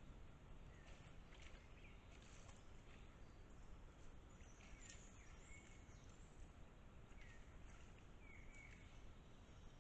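Near silence with a steady low hiss and a few faint short bird chirps, several seconds apart.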